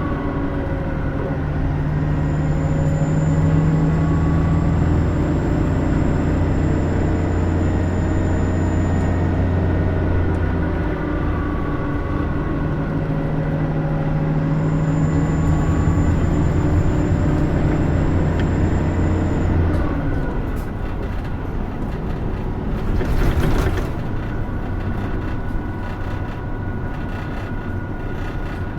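Hino Rainbow II route bus heard from inside the cabin, its engine pulling under load in two stretches with a faint high whine, dropping briefly about ten seconds in as it shifts gear. At about twenty seconds it eases off and coasts with body rattles, and a brief rushing hiss comes a few seconds later.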